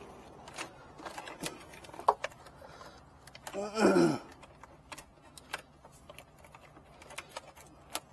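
Scattered light clicks and taps from handling the motorcycle and its parts, with a short voice-like sound falling in pitch about four seconds in.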